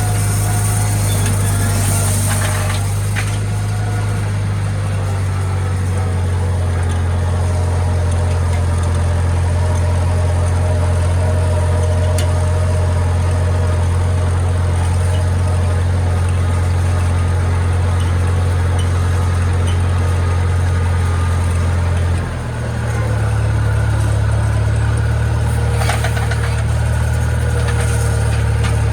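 International Harvester tractor engine running steadily with a deep, even drone. About three-quarters of the way through, the engine note briefly dips and then settles a little higher.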